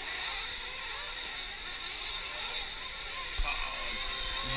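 Nitro RC truck engines running at high revs around the track, a steady high-pitched whine.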